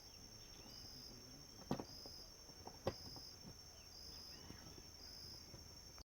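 Insects chirring at night: a steady high-pitched drone with short pulses repeated about once a second. Two faint sharp clicks come about a second apart.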